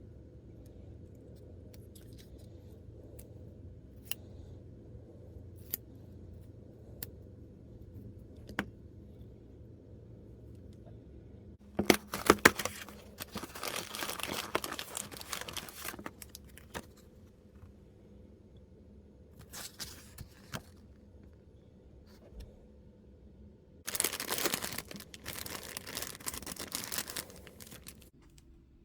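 Packaging of a boxed miniatures set being torn open and crinkled, in two spells of several seconds each. Before them come a few light clicks of small pieces being handled.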